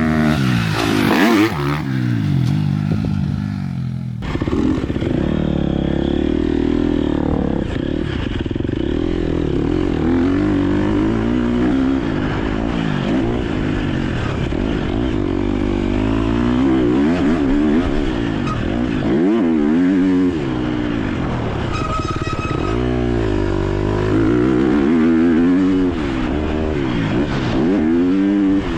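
2023 KTM 250 SX-F motocross bike's four-stroke single-cylinder engine being ridden hard, its revs climbing and dropping again and again. A loud rushing noise covers the first four seconds or so.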